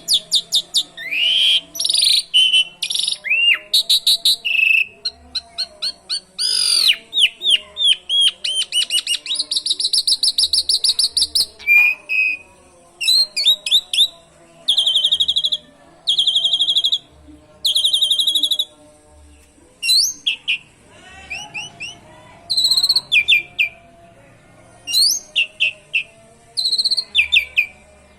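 Asian pied starling singing a loud, varied song of rapid chirps, whistles and fast canary-like trills learned from canaries, in phrases broken by short pauses.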